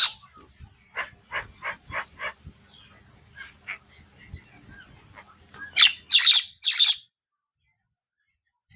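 Parrot calling: a quick run of short chirps, then three loud harsh squawks, after which the sound cuts off suddenly.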